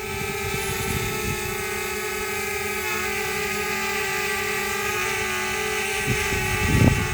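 DJI Spark quadcopter in flight: a steady propeller whine at an even pitch with several overtones, over a low rumbling noise. A few louder low thumps come about six and seven seconds in.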